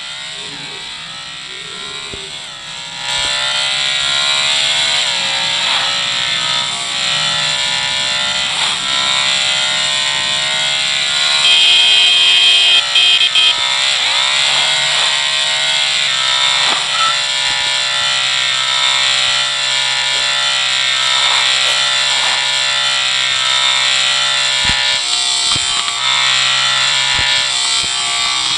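Motorcycle engine running hard at high revs with a high-pitched whine, getting louder about three seconds in and then holding steady.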